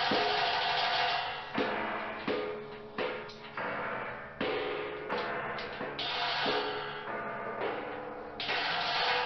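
Experimental percussion soundtrack: a steady crashing wash, then about a dozen sudden, irregularly spaced strikes, each ringing and fading before the next.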